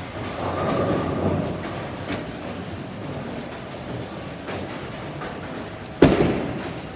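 Bowling alley: a bowling ball rolling down the lane with a steady rumble, then a sudden loud crash of pins about six seconds in.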